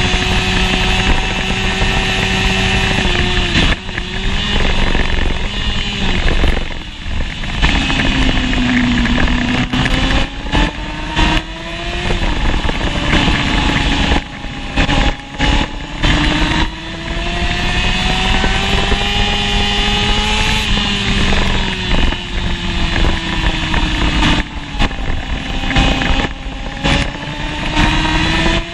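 1988 Honda CBR600F's inline-four engine at racing revs, its pitch climbing again and again through the gears, with short dips in level as it shifts and a drop in pitch where it slows for corners.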